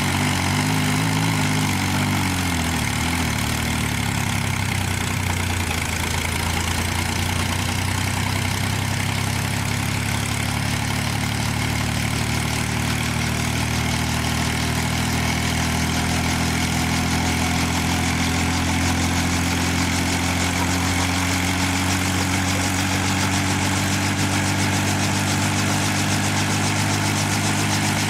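Helicopter engine and rotor running loud and steady, with its pitch slowly rising in the last third.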